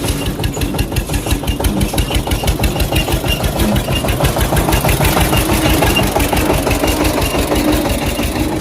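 Tractor engine running with a steady, rapid chug.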